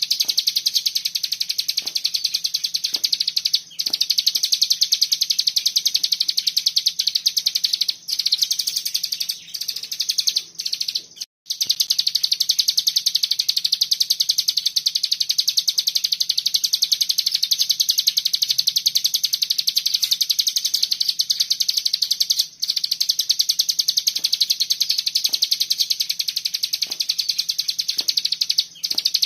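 A cigun songbird singing a continuous, rapid, tight high-pitched trill (the 'bren' or 'ngebren' song), broken only by a few short pauses, the longest about 11 seconds in.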